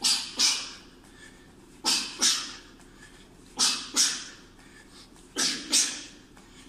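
Short, sharp breaths out through the mouth, two to each uppercut-hook combination of shadowboxing punches, four pairs coming about every two seconds.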